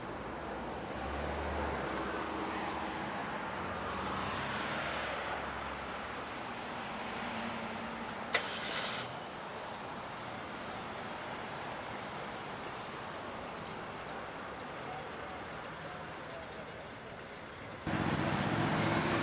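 Motor vehicles running and passing over a steady outdoor noise, with a sharp click about eight seconds in. A louder steady hum starts suddenly near the end.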